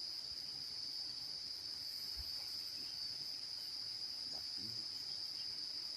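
Steady high-pitched insect chorus, a continuous even trill of crickets.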